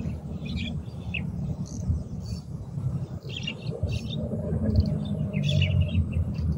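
Birds chirping in short, scattered calls over a continuous low rumble.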